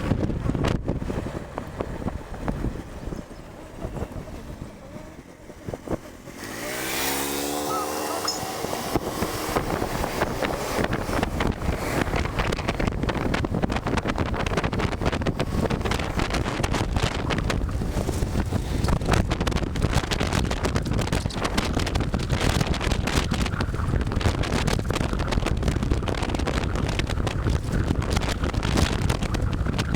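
Riding an electric scooter on the road: about six seconds in, a rising whine comes as it speeds up. After that, wind rushes and buffets loudly and steadily on the microphone.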